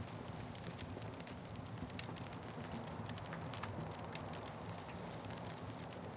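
Wood fire crackling, with frequent small sharp pops and snaps over a steady low rumble of the flames.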